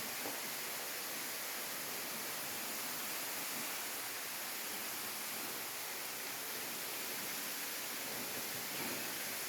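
Steady, even rushing of flowing water from a waterfall stream.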